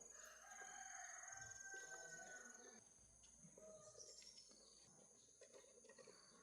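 Near silence with faint bird calls in the first couple of seconds.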